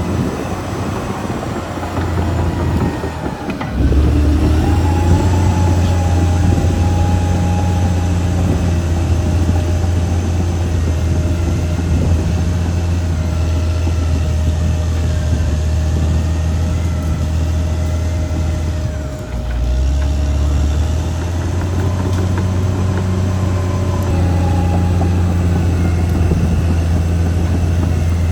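Caterpillar D6R XL bulldozer's diesel engine running hard. It grows louder and deeper about four seconds in, eases briefly about two-thirds of the way through, then carries on steadily.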